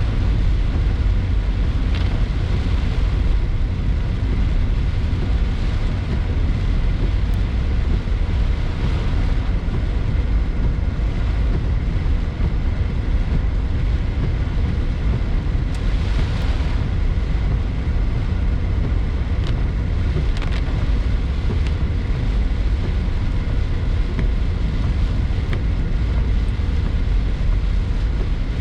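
Steady low rumble of a car driving along the road, tyre and engine noise heard from inside the cabin, with a few brief swells of higher hiss.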